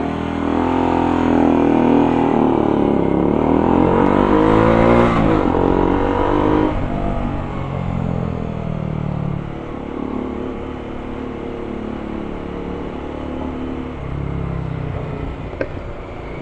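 Motorcycle engine accelerating hard, its pitch rising for about five seconds, then dropping off and running steadier at lower revs.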